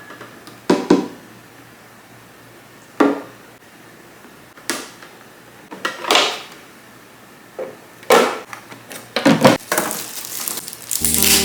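Plastic storage containers being handled and set down, giving about six separate knocks and clatters a second or so apart. Background music comes in near the end.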